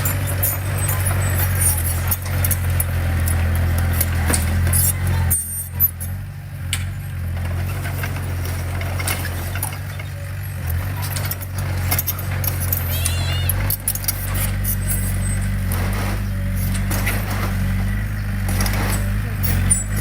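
Diesel engine of heavy earthmoving equipment running with a steady low hum, its pitch shifting a couple of times, with scattered clanks and knocks and a brief squeal about two-thirds of the way through.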